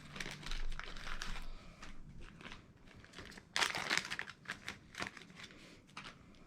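Replacement bulb packaging crinkling and rustling as the new bulbs are worked out of it by hand, in irregular bursts with the loudest crackle about three and a half seconds in.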